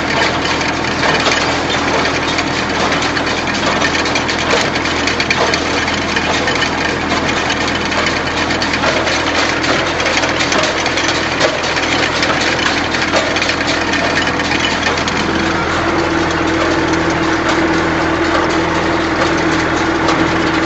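Massey Ferguson 135 tractor engine running steadily under load while pulling a working MF 20 square baler, with the baler's mechanism clattering. A stronger, steadier engine note comes up about 15 seconds in.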